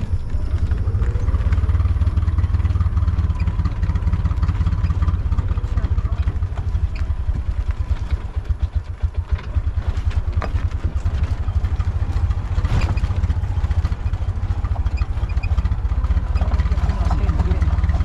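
Tuk-tuk (auto-rickshaw) engine running with a fast-pulsing rumble while riding over a rough road, the cab rattling and giving a few sharp knocks from bumps partway through.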